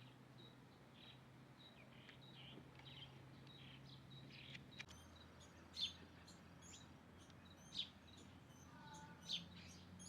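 Small birds chirping faintly: short high-pitched chirps, sparse at first, then sharper ones about every second in the second half.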